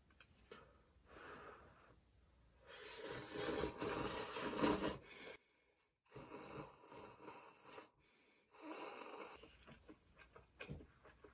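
Close-miked slurping from a cup noodle: one long, loud slurp of about two and a half seconds, then two shorter slurps, with small mouth clicks between.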